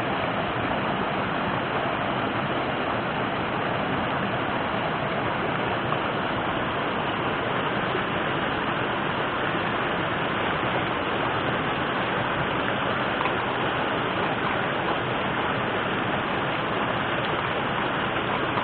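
River water rushing steadily, an even hiss-like flow with no breaks.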